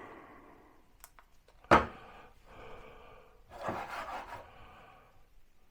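A level knocked into place against the wooden wall cabinet with one sharp knock, after a fainter click. Soft rubbing and breathing follow.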